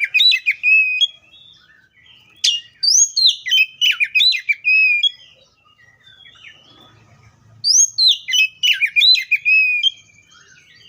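Oriental magpie-robin singing: three loud phrases of rapid, sweeping whistled notes, a few seconds apart.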